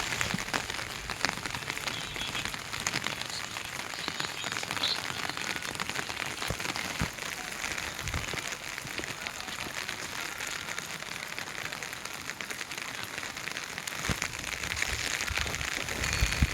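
Heavy rain falling steadily, a continuous hiss with many separate drops ticking as they strike.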